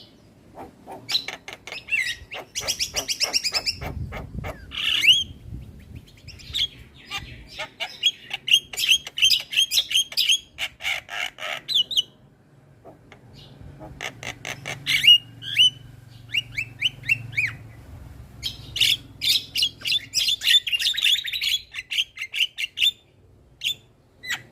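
Javan myna (jalak kebo) singing and chattering in fast runs of short, harsh, repeated notes, with a few brief pauses.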